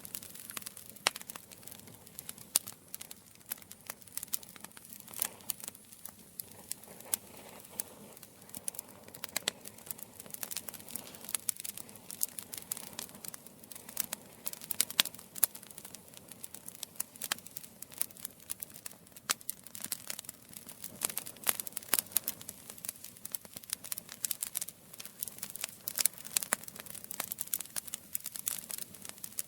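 Campfire crackling: wood burning with irregular sharp pops and snaps over a soft hiss.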